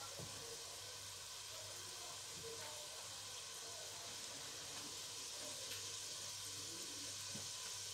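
Faint, steady sizzle of onions, garlic and whole tomatoes frying in oil in a steel pot, with a low steady hum beneath.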